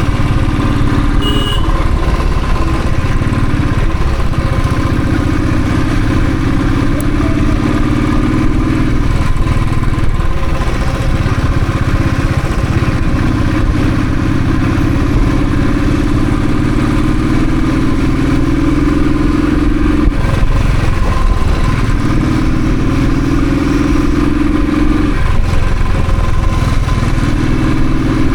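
Royal Enfield Thunderbird's single-cylinder engine running on the move, its pitch climbing slowly through each gear and dropping back at gear changes several times.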